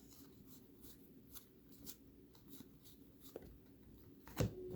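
Trading cards being handled and slid through the hands after a pack is opened: faint rustling and light ticks, with a sharper tap near the end.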